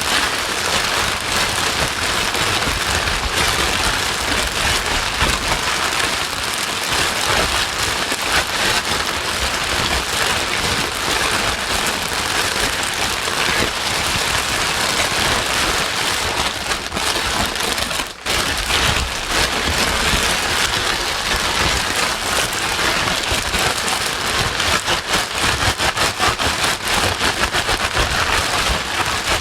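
Steady, dense rain noise, a constant hiss of many drops pattering on a surface, played as white noise. It dips briefly about two-thirds of the way through.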